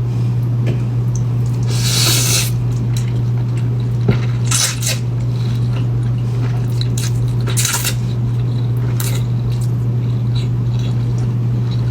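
A person eating cheesy spicy instant noodles close to the microphone: a few short, noisy slurps about two, five, eight and nine seconds in, among wet chewing. A steady low hum runs underneath.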